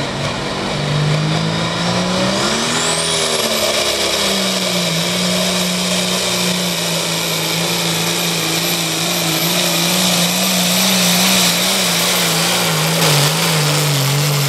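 A competition puller's engine under full load on a pull. It revs up about two seconds in, then holds at high revs with a wavering pitch. A high whistle rises with it and then stays steady.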